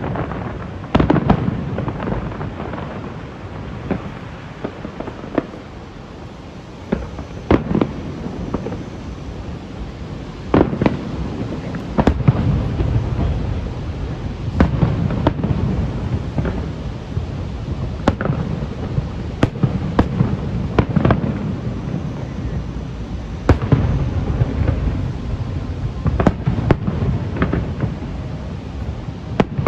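Fireworks display: aerial shells bursting in sharp bangs at irregular intervals, several close together at times, over a continuous low rumble and crackle.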